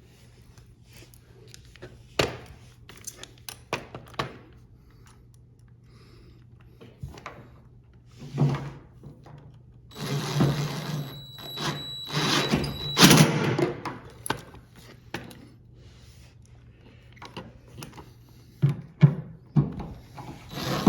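Knocks and clicks of metal parts and tools being handled, then a power screwdriver running in short whining bursts about halfway through as the two small screws are driven in.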